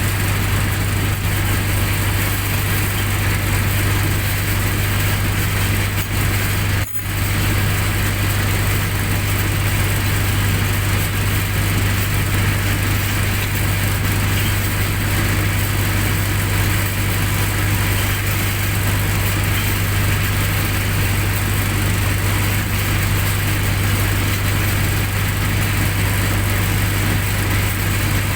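Generator set's engine running steadily at a constant speed with a strong low hum, cutting out for an instant about seven seconds in.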